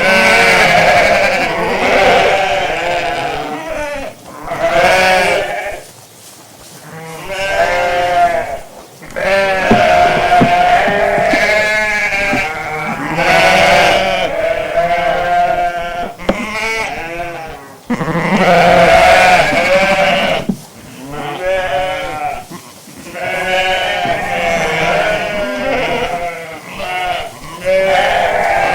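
A flock of sheep bleating, many calls overlapping one after another with a wavering pitch.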